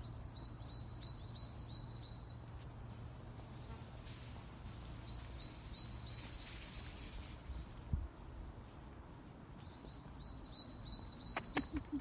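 A small songbird singing a phrase of rapid repeated high notes three times, about every five seconds, over a steady low background rumble. A single thump comes about eight seconds in, and footsteps on the pavement begin near the end.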